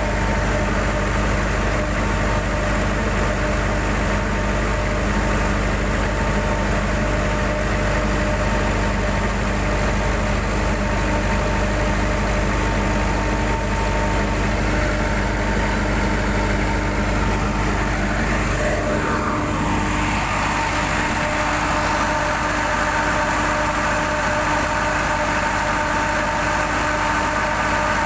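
Cummins QSB diesel engine running steadily on a test run. About two-thirds of the way through, its pitch rises to a higher speed and then holds steady there.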